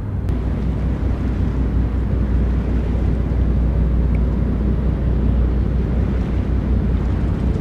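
Steady low rumble of a large heavy transport ship's engines as it gets under way, mixed with wind buffeting the microphone.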